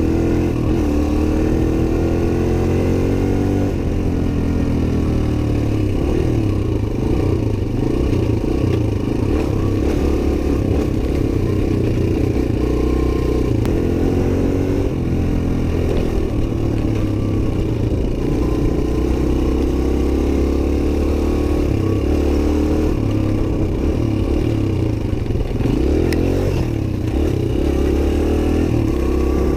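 Suzuki DR-Z125 dirt bike's single-cylinder four-stroke engine running while being ridden, its pitch rising and falling again and again with throttle and gear changes.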